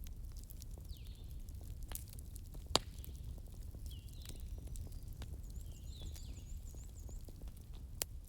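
Wood fire crackling, with irregular sharp pops over a low steady rumble; the loudest pop comes about three seconds in, with another near the end. A high chirping call repeats about every second and a half.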